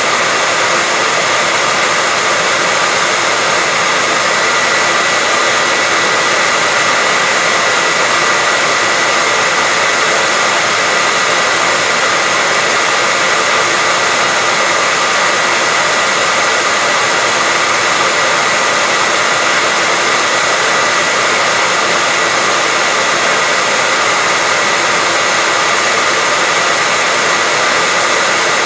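Hair dryer running steadily: an even, unbroken whoosh of rushing air with a faint steady whine.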